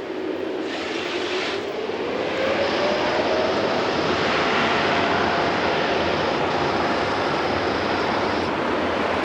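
Twin-engine jet airliner passing close by at low altitude: a loud, steady engine roar that swells over the first few seconds. A tone rises in pitch partway in, and a high whine holds through most of it.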